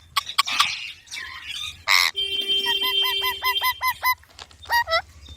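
Baby green parrot calling: harsh squawks, then a loud call about two seconds in followed by a quick run of about eight short repeated notes, with more calls near the end.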